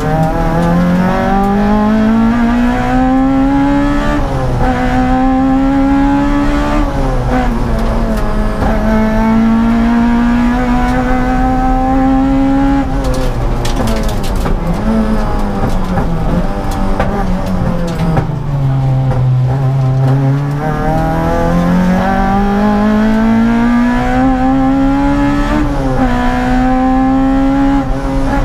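Honda Civic EG's B16 1.6-litre four-cylinder engine, heard inside the rally car's cabin, revving hard up through the gears with a sharp drop in pitch at each shift, about four and seven seconds in. Past the middle the revs fall away under braking, then the engine pulls hard up through the gears again, shifting once more near the end.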